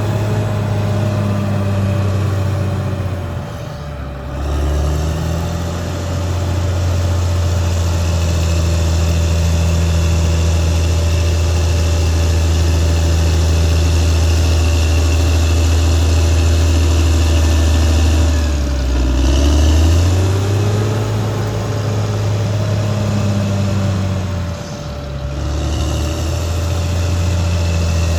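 Caterpillar D6R XL bulldozer's diesel engine running under working load. Its pitch sags and climbs back three times, as the engine is loaded and recovers, with a thin steady whine above the engine note.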